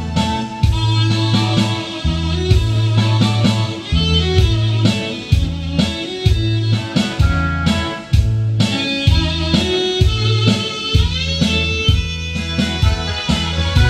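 Instrumental break of a karaoke backing track: a guitar plays the melody over a steady bass line and drum beat.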